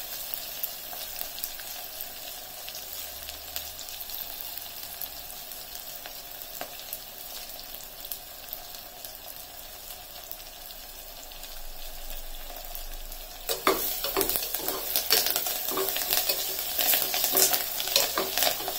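Onions, green chillies and curry leaves sizzling in hot oil in a pressure cooker, a steady frying hiss. About thirteen seconds in, stirring starts, with louder scrapes and clicks of a spoon against the pot over the sizzle.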